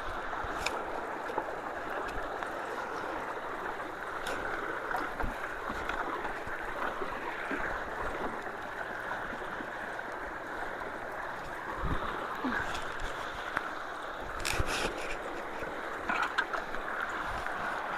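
Rushing creek water, running high after heavy rain, flowing steadily with a continuous rushing sound. A few brief knocks and clicks stand out now and then.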